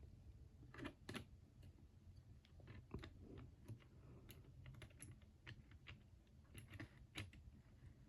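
Faint, scattered small clicks and taps from handling an old model train engine, setting it on the track.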